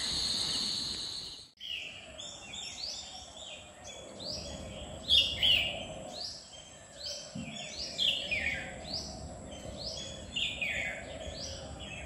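Many birds calling among trees: repeated short chirps that sweep down in pitch, several overlapping, about two a second. Before them comes a steady high drone that cuts off suddenly about a second and a half in.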